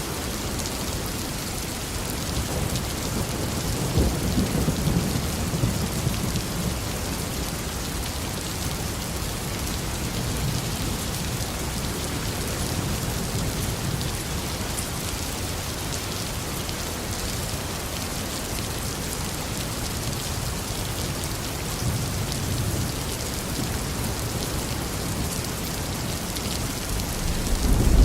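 Steady tropical rain with low rolling thunder: one rumble about four seconds in, fainter ones later, and a stronger one building near the end.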